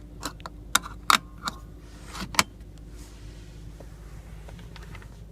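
A few sharp clicks and knocks of a car's centre-console covers being opened and shut, the loudest about two and a half seconds in, over a low steady hum.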